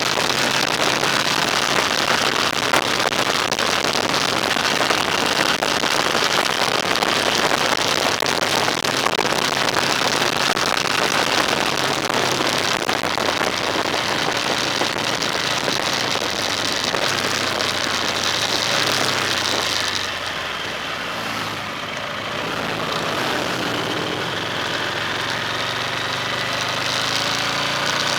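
Car driving in rain: a steady hiss of rain and wet road over the engine's hum. About 20 seconds in the hiss drops away, leaving the engine, which rises in pitch near the end.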